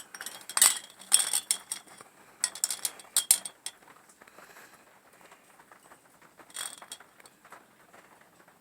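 Small glass soda bottles and copper wire fittings of a homemade hummingbird feeder clinking and rattling as it is handled. There is a run of clinks over the first few seconds and a shorter cluster about two seconds before the end.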